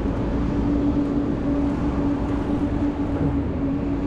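Vehicle noise: a steady mid-pitched hum over a dense low rumble.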